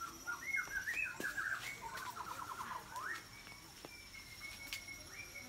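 Birds calling: a run of short chirps and a quick trill in the first three seconds, over a steady high-pitched tone, with a few sharp clicks.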